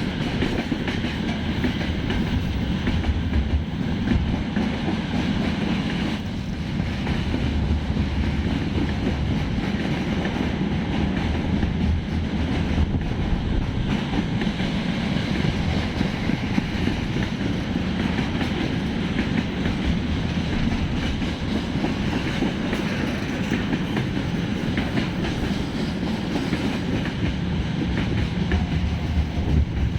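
A long train rolling past, with a steady rumble of wheels on rails and the clatter of wheels over rail joints, unbroken for the whole stretch.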